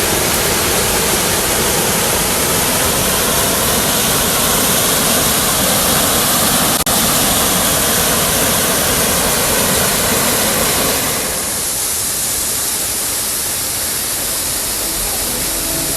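Rushing water of a rainforest waterfall, a loud steady roar that breaks off for an instant about seven seconds in and turns to a softer, thinner rush about eleven seconds in.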